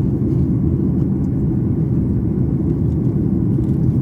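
Steady low cabin rumble of a Boeing 737 MAX 8 in descent, the airflow and CFM LEAP-1B engine noise heard from inside the passenger cabin.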